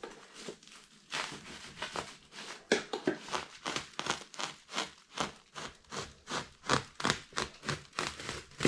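A knife sawing through an insulation batt along a ruler: a quick run of short rasping cutting strokes, about three or four a second, starting about a second in.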